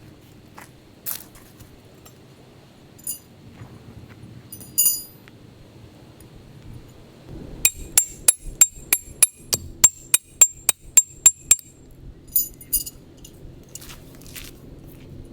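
Metal striking metal with a bright ringing clink: a few scattered strikes, then a fast, even run of about fourteen strikes at roughly four a second, then a few more near the end.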